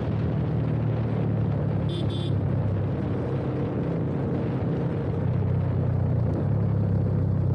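Yamaha FZ25 single-cylinder engine running steadily through an aftermarket slip-on exhaust while riding, over wind and road noise, getting a little louder near the end. A brief high-pitched beep sounds about two seconds in.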